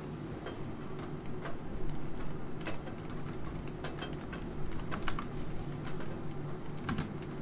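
Computer keyboard keys tapped sporadically: a few scattered, uneven clicks rather than steady typing, over a constant low hum.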